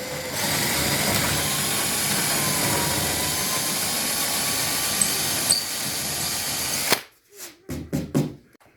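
Power drill boring a 1/4-inch dowel hole into wood, running steadily with a faint motor whine, then stopping sharply about seven seconds in. A few light knocks of handling follow.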